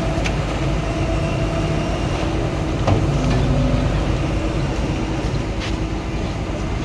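Heavy diesel vehicle engine running steadily with a low rumble and a faint humming tone, a few light knocks and clicks over it.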